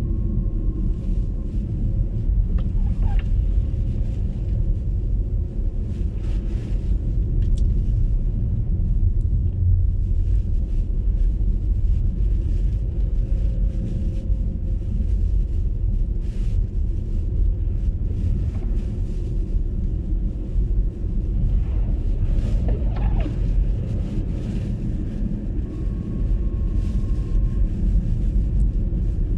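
Steady low rumble of road and tyre noise from an MG ZS EV electric car driving, with scattered faint clicks and ticks.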